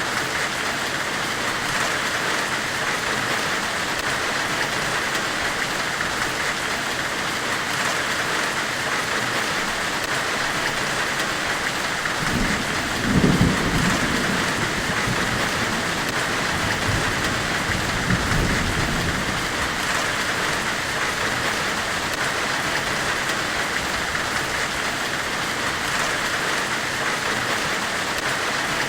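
Steady hiss of a forge-weld themed white-noise ambience. A low rumble swells in about 12 seconds in, and a weaker one follows around 18 seconds.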